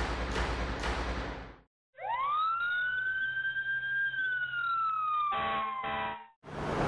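Fire engine siren winding up in a rising wail, holding, then slowly falling, with two short horn blasts near the end. Before it, a rumbling noise stops about a second and a half in.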